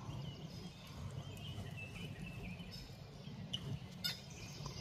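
Faint chirps and short calls of wild birds at a feeder over a steady low background rumble, with a couple of brief clicks near the end.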